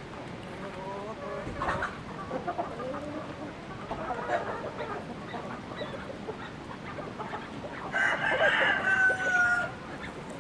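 Chickens clucking, then a rooster crows once near the end, the loudest sound, one held call of about a second and a half.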